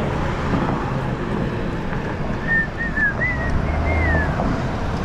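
Wind rushing over the microphone while riding an electric dirt bike, mixed with a steady tyre and drivetrain rumble. A few faint, short high chirps come through about halfway in.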